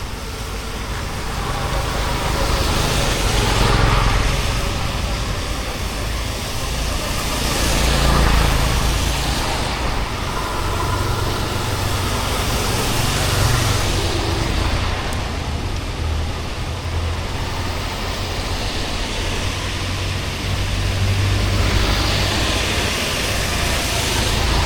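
Rain and wet-road traffic: a steady hiss of rain with a low rumble throughout, as several vehicles swell past on the wet street, about four times.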